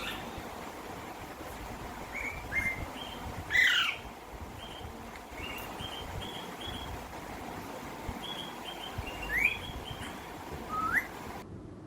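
Birds chirping: scattered short chirps and a few rising whistle-like calls over a steady background hiss. The loudest is a falling call about three and a half seconds in. The sound cuts off abruptly near the end.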